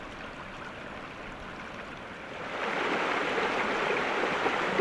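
Running water, an even rushing hiss that grows louder about two and a half seconds in.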